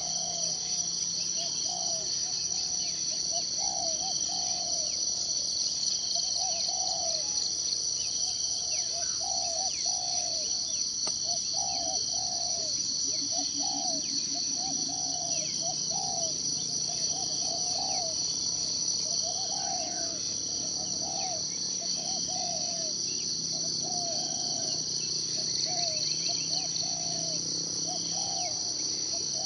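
Forest ambience: a steady, high-pitched insect drone with a fast pulse, and a bird repeating a short, lower call about once a second.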